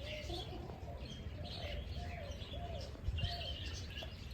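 Birds singing outdoors: scattered high chirps overlap a run of short, lower arched notes repeated about every half second through the middle of the stretch. A steady low rumble runs underneath.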